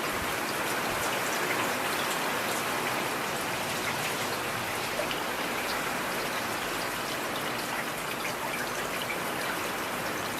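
Heavy rain falling steadily, with scattered individual drops ticking through the even hiss.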